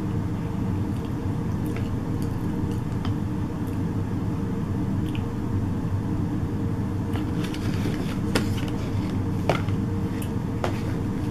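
Chewing food with the mouth closed, over a steady low hum. From about seven seconds in, a few sharp clicks and crinkles as a paper food box is picked up and handled.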